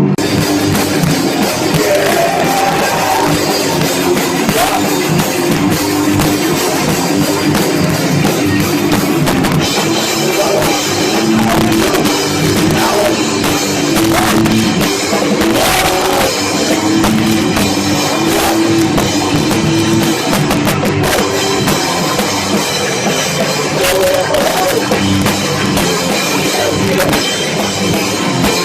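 Live punk band playing loud and fast: distorted guitars and a pounding drum kit, recorded in the room with heavy, clipped distortion.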